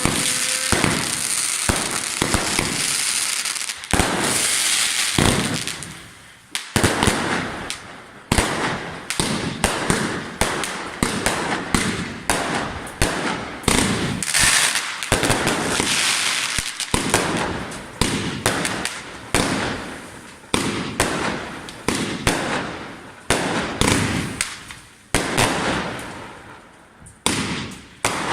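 Fireworks going off. A dense crackling hiss runs for the first six seconds or so. Then comes a long string of sharp bangs at uneven spacing, sometimes several a second, each with a short echoing tail.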